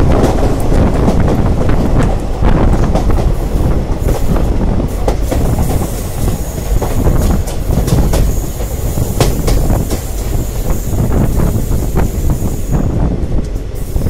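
Diesel-hauled express passenger train running on the track, heard from on board: a loud rolling rumble with the clicks of wheels over rail joints. A thin, high, steady squeal comes in about six seconds in and stops near the end.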